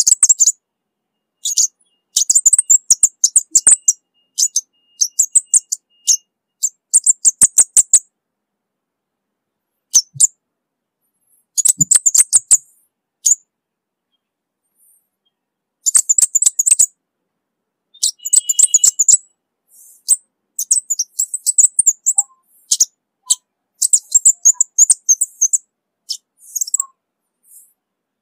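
Orange-bellied flowerpecker singing: rapid strings of short, very high ticking notes in bursts of a second or two, separated by silent gaps.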